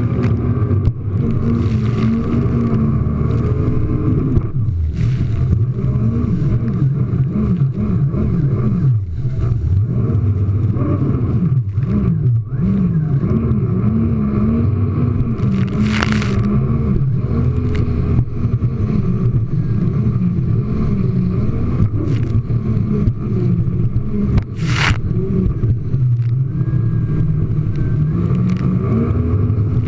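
Jet ski engine running under throttle, its pitch rising and falling repeatedly as the rider works the throttle over the waves, dipping sharply and climbing back about a third of the way in and again shortly after. Two short hissing bursts of spray or wind cut across it past halfway and near the end.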